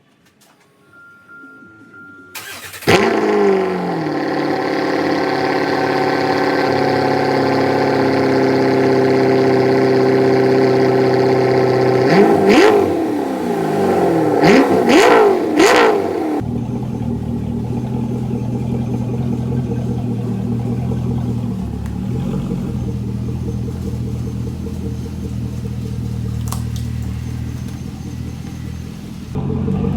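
Chevrolet Camaro's 6.2-litre LS V8 cold-started: it catches about three seconds in and settles into a fast cold idle. It is revved several times between about twelve and sixteen seconds. The sound then drops abruptly to a steadier, deeper idle.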